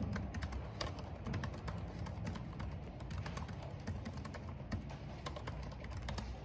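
Typing on a computer keyboard: quick, irregular key clicks over a steady low rumble of wind and rain.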